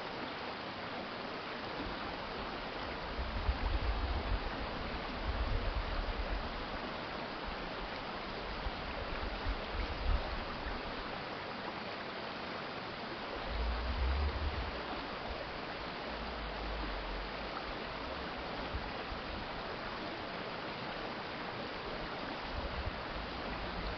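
Stream water flowing steadily over its bed, an even rushing noise, with low rumbles swelling and fading several times underneath.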